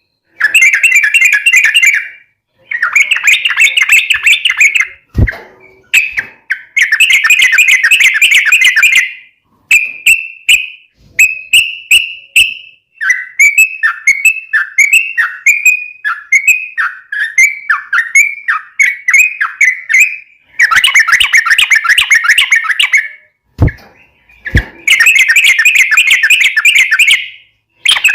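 Yellow-vented bulbul (trucukan) singing its long, fast chattering song in loud phrases of a few seconds each, with a run of short downward-sliding notes in the middle. A few brief dull knocks come about 5 s in and twice near the end.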